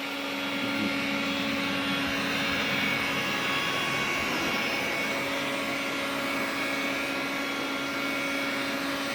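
Xiaomi vacuum cleaner running steadily: airflow noise with several steady whining tones on top, the extraneous noise of the machine. The lowest tone fades briefly about four seconds in, then returns.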